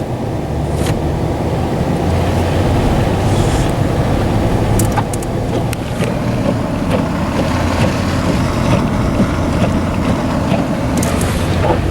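Steady engine and road noise of a two-wheel-drive 2013 Dodge Ram 1500 with a Hemi V8, heard inside the cab while driving on a snow-covered road, with a low hum and a few light clicks.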